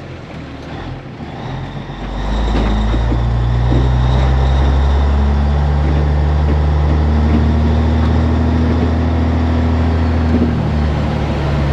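Heavy diesel truck engine that comes up sharply about two seconds in, then runs loud and steady with a deep drone.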